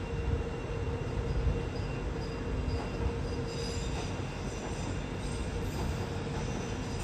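A train running, with a steady low noise throughout; high-pitched wheel squeal comes in about halfway through.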